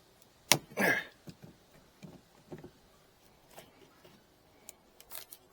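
A sharp snap, then a short falling vocal cry, followed by a few light scattered clicks and taps from handling old wooden hive frames.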